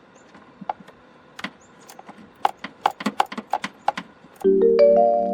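A run of light clicks and knocks, sparse at first and coming quickly, several a second, just past halfway. Near the end, mallet-percussion background music like a marimba starts in.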